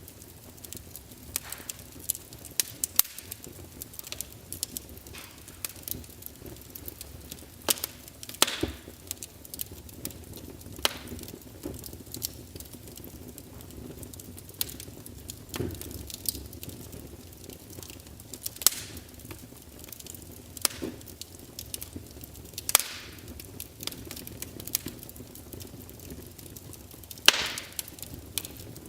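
Wood fire burning in a fireplace: irregular sharp crackles and pops from the burning logs over a low steady hiss, with a few louder snaps scattered through.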